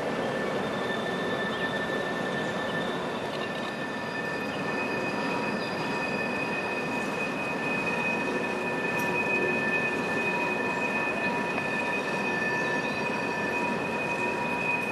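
Norfolk Southern freight cars rolling past with a steady rumble, their steel wheels squealing in several thin, high, sustained tones.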